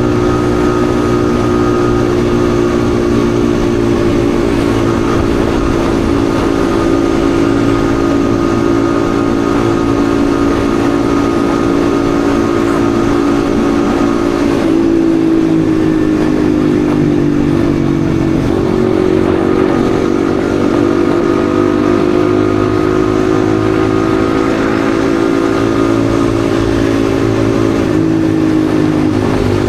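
Yamaha XSR155's single-cylinder engine running while riding at a steady speed. Its pitch dips about halfway through, then climbs slowly as the bike accelerates, and drops again near the end.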